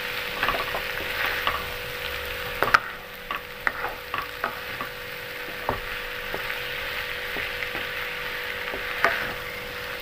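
Soaked sago pearls sizzling in ghee in a non-stick pan while a wooden spatula stirs them over medium heat, with scattered taps and scrapes of the spatula against the pan. The sharpest tap comes a little under three seconds in.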